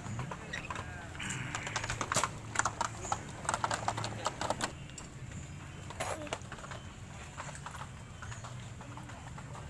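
A run of sharp clicks and clatters, thickest in the first half, over a steady low hum.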